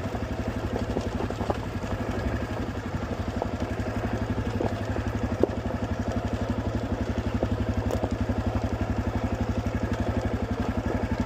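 Honda CRF250 dirt bike's single-cylinder four-stroke engine running at low, steady revs going down a steep hill, with a few sharp clicks over it.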